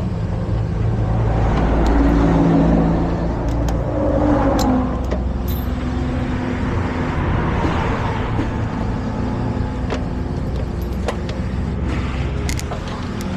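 A heavy truck's diesel engine idling steadily, with traffic passing on the road, the loudest pass about two to three seconds in.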